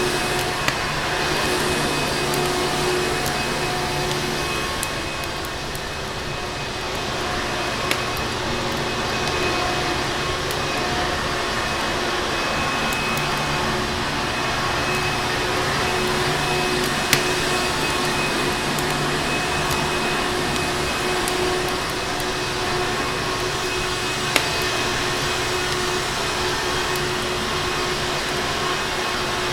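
Vacuum cleaner motor running steadily with a constant whine, under which a fireplace crackles, with a few sharp single pops spread through.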